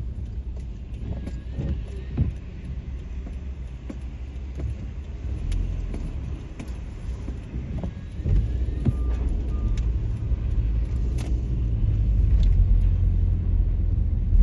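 Car running on a snowy road, heard from inside the cabin: a steady low rumble of engine and tyres that gets louder about eight seconds in and again near the end.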